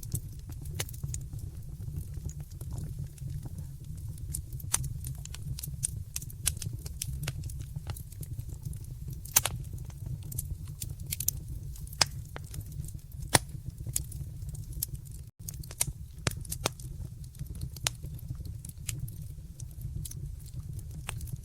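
Wood fire in a fireplace crackling, with irregular sharp pops over a steady low rumble. The sound cuts out for an instant about fifteen seconds in.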